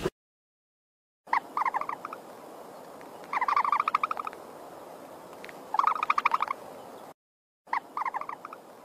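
A bird's call: four short bursts of a rapid, pulsing trill, about two seconds apart, over a steady hiss. The call begins after about a second of silence.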